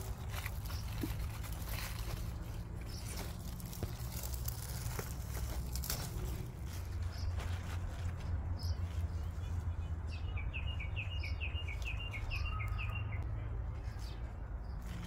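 A bird calls a fast trill of about a dozen short high notes about ten seconds in, over a steady low rumble and scattered rustles and clicks.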